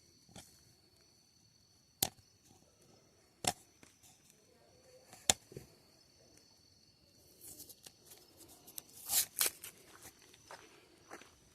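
Sharp single cracks every second or two, then a quicker run of pops about eight to nine and a half seconds in, over a faint steady high-pitched whine.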